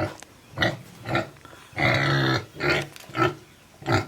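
Philippine native pigs grunting in short repeated grunts, about two a second, with one longer, louder squeal about two seconds in. The pigs are worked up at feeding time by the smell of feed sweetened with molasses.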